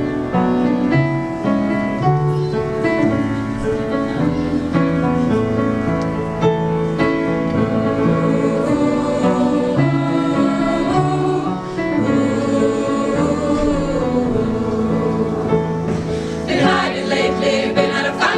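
Choir song with instrumental accompaniment: held sung and played notes with no clear words, the sound growing fuller about sixteen seconds in.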